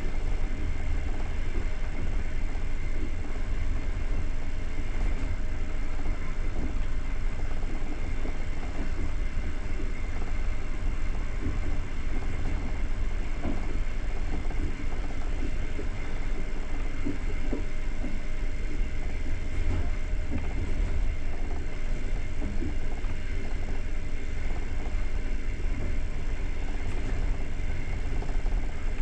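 Passenger train running steadily along the line, heard from aboard: a continuous low rumble of the carriage's wheels on the rails, with faint irregular ticks and rattles.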